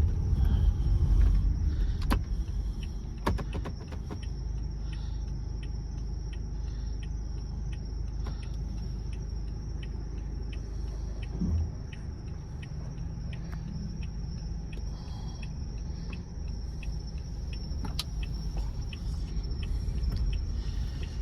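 A car running slowly with a steady low rumble, louder in the first couple of seconds, with scattered light clicks and a single thump about halfway through.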